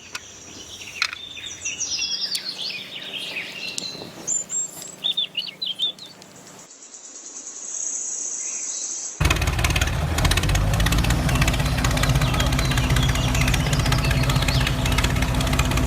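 Birds chirping, then about nine seconds in a loud, steady mechanical hum of a small motor cuts in suddenly and runs on.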